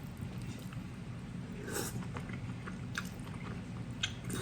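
A person chewing a mouthful of noodles in black bean sauce, with faint wet mouth clicks a few times.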